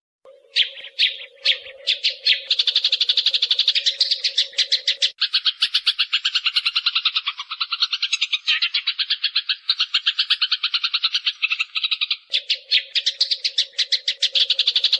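Eurasian tree sparrow chattering: a few separate chirps, then a fast, unbroken run of chirps at about ten a second. About five seconds in it shifts to a lower, two-pitched chatter, and it returns to the higher run a little after twelve seconds.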